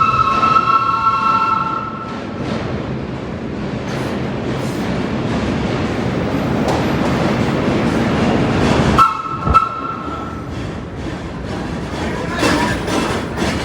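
Subway train horn sounding a chord for about two seconds, then the rumble of a train running builds up, and a second short horn blast comes about nine seconds in.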